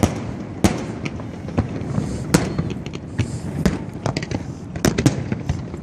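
Fireworks exploding: a string of sharp bangs at irregular intervals, roughly one or two a second, over a steady background rumble.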